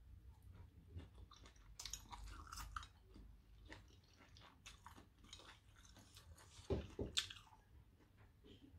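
Faint chewing and mouth sounds of a person eating sliced sausage in curry sauce (currywurst), with small wet clicks throughout and a few louder clicks about seven seconds in.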